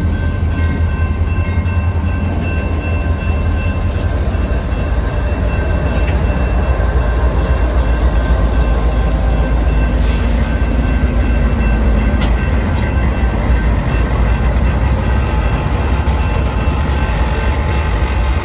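Diesel freight locomotives running at low speed, a loud steady deep engine rumble with a few thin steady higher tones over it and a brief click about ten seconds in.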